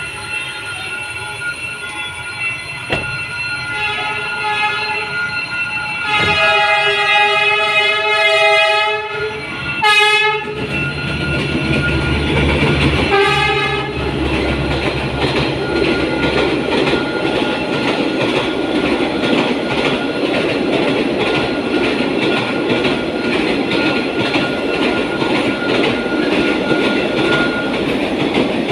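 A train horn sounds a long blast about six seconds in and shorter blasts near ten and thirteen seconds. The train then passes close by with a steady rumble and a rhythmic clickety-clack of wheels over the rail joints.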